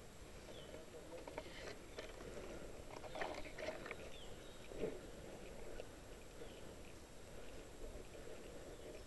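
A bird calling faintly, short falling chirps repeated every second or two, over low outdoor background noise. Faint rustling and a few soft knocks come between about one and five seconds in.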